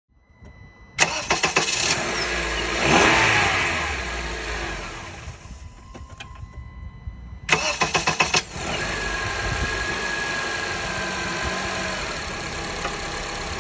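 Honda CR-V 2.4-litre four-cylinder engine started twice with a newly replaced starter. Each time there is a brief cranking rattle, then the engine catches; after the first start it revs up briefly and settles, and after the second it runs at a steady idle.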